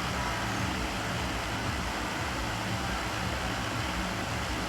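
Steady hum and hiss of an electric fan running, even throughout.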